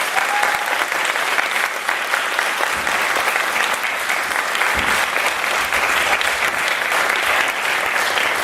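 Audience applauding steadily after an a cappella performance, a dense patter of many hands clapping.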